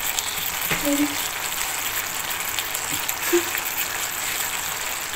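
Diced potatoes frying in a pan, a steady sizzle as the aloo bhujiya nears done.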